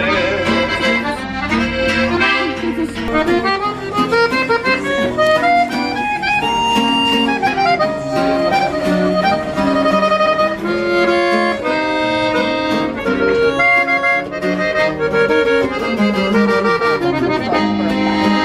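Norteño band playing an instrumental break between sung verses: the accordion carries quick runs of melody over guitar accompaniment.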